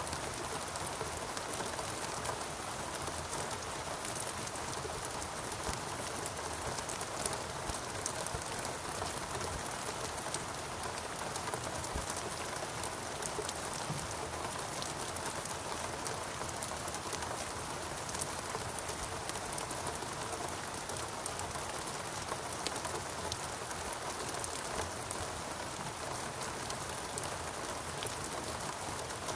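Steady rainfall on foliage and surfaces, a continuous hiss with many individual drops pattering throughout.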